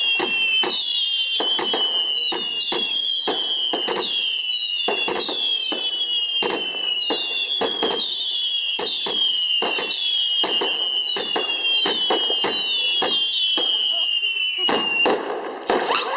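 Firework barrage firing shot after shot: each shot is a high whistle that falls slightly in pitch, and the whistles overlap with cracks and bangs about one or two a second. A denser cluster of bangs comes near the end.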